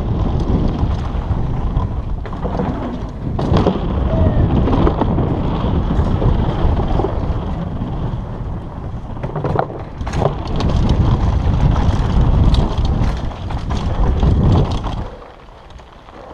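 Wind buffeting the microphone and a downhill mountain bike rattling over rough trail at speed, with sharp knocks from the bike now and then. The noise falls away suddenly about fifteen seconds in.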